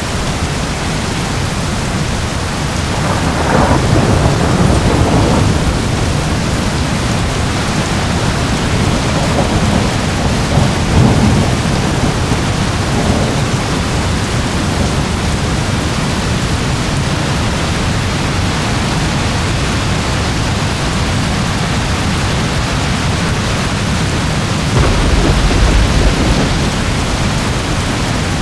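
Steady heavy rain with thunder rolling in the background: a long low rumble a few seconds in, further rumbles around ten to thirteen seconds, and a shorter one near the end.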